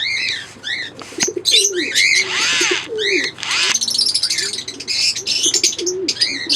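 Lovebirds chirping and chattering in rapid high arched notes, with two harsher, rasping calls about two and three and a half seconds in. A lower warbling coo runs underneath.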